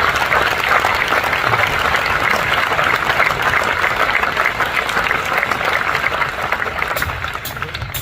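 Concert audience applauding, the clapping thinning out to a few scattered claps near the end.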